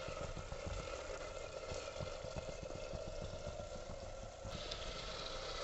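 Tomato and spice masala bubbling and sizzling in hot oil in a pressure cooker, with many small pops and crackles. The sizzle turns brighter and hissier about four and a half seconds in.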